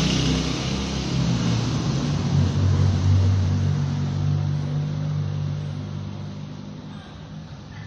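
Motorcycle engine running steadily, its low note shifting slightly a couple of seconds in and growing fainter over the last few seconds.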